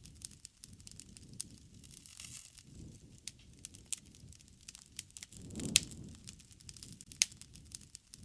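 Wood fire crackling: irregular sharp pops and snaps, the loudest about six and seven seconds in, over a soft low rushing of flames that swells and fades.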